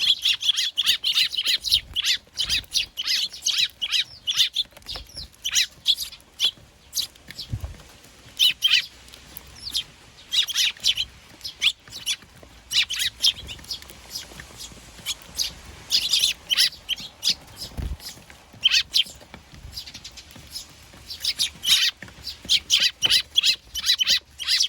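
Eurasian tree sparrows chirping in quick bursts of short, high chirps, several birds at once, with a few soft low thumps.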